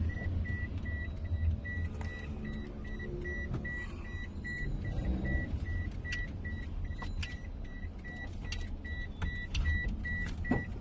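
Low rumble of a running car, with an electronic warning beep repeating about twice a second and a few scattered light clicks.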